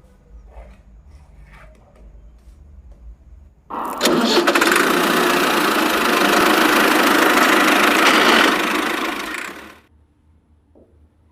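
A small motor runs loudly and evenly for about six seconds. It starts abruptly about four seconds in and dies away shortly before the end, after a few faint handling clicks.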